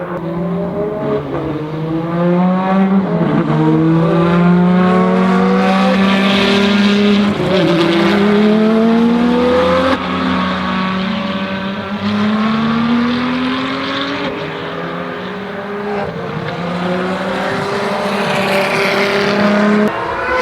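Ferrari FXX Evoluzione's V12 at full throttle on track, its pitch climbing again and again, with short dips at each upshift. The engine note falls away abruptly near the end.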